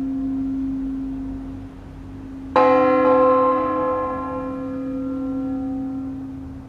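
Bronze church bells tolling a slow funeral toll. A single bell stroke lands about two and a half seconds in and rings out, fading slowly over the steady hum of a large bell still sounding from earlier strokes.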